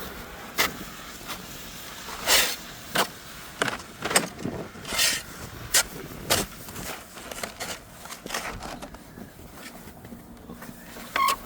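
Footsteps crunching through snow, an uneven step every half second or so, thinning out near the end.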